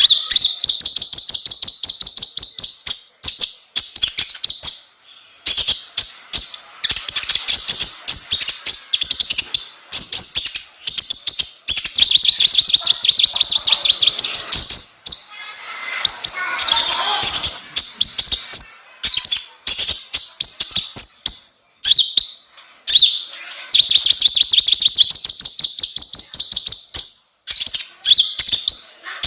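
Kolibri ninja (konin) sunbird singing in long, rapid, high-pitched chattering trills broken by short pauses, with one lower, falling phrase about halfway through.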